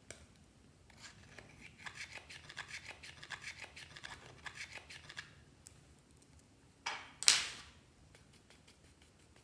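Close-up sticky handling of slime mixed with eyeshadow: a quick run of small scraping clicks at about six a second, then two louder, sharper crackles a few seconds later.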